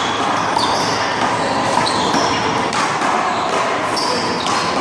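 One-wall handball play: a few sharp smacks of the rubber ball off the wall and pavement, with short high squeaks and shuffling of sneakers, over a steady noise bed.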